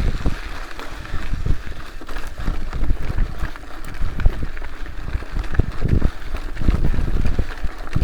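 Wind buffeting the microphone in irregular low gusts, over a faint rustling hiss.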